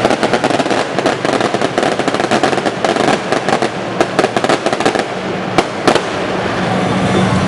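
Fireworks and road firecrackers going off in a dense, rapid crackle of bangs. The bangs thin a little about five seconds in, with a few louder single reports.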